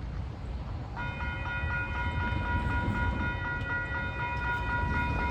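A train passing with a low rumble, and from about a second in a steady high-pitched tone with several overtones that holds to the end.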